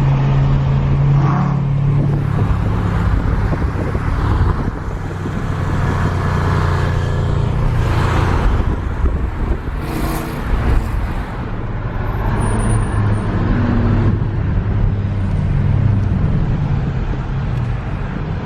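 Car engine running steadily with road and traffic noise, its pitch shifting a little now and then.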